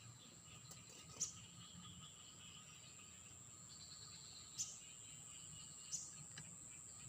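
Faint outdoor ambience: insects giving a steady high-pitched drone, with three short sharp clicks spread through it.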